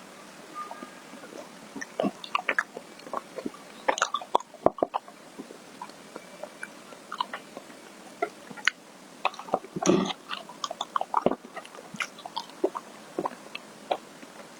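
Close-miked mouth sounds of someone eating ice cream: irregular wet clicks and chewing. There are denser, louder clusters about four seconds in and again near ten seconds.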